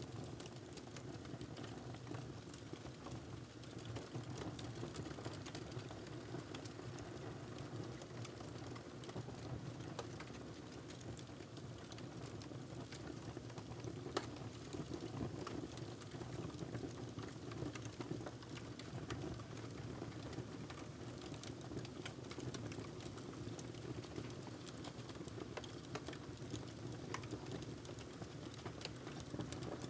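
Wood fire crackling in a fireplace: a steady low rumble of the burning logs with scattered small pops and snaps, one sharper pop about halfway through.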